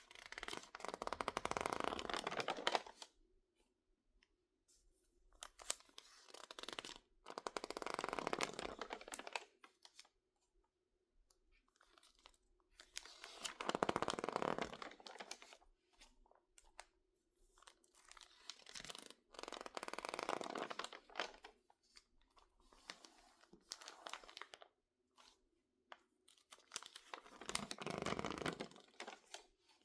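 Stiff, water-crinkled magazine pages crackling and crinkling as hands squeeze and work them, in repeated bursts of a couple of seconds with short pauses between.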